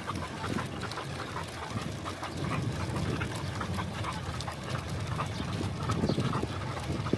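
Dog running alongside a moving bicycle: its quick footfalls and panting over a steady low rumble.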